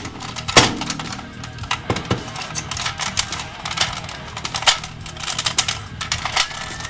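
Hard plastic parts of a toy robot clicking and clacking as it is handled, over background music. The sharpest snap comes about half a second in.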